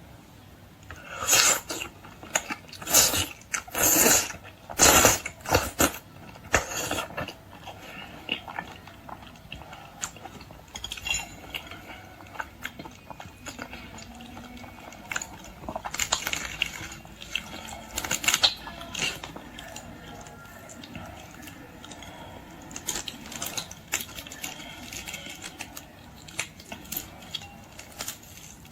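Close-up eating sounds of boiled shrimp and lobster: sharp crunches of shell and wet chewing. The loudest crunches come in a cluster in the first few seconds and again past the middle, with softer clicks and smacks between.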